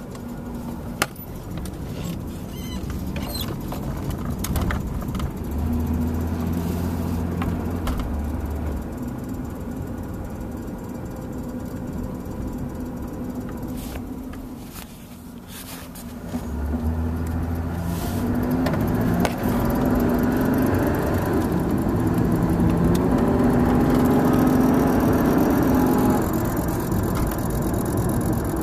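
A 1994 Buick Century heard from inside the cabin while driving: steady engine and road noise that grows louder about two-thirds of the way through as the car picks up speed.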